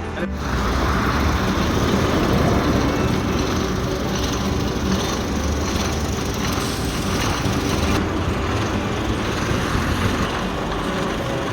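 Steady vehicle engine and road noise, a continuous rumble with hiss.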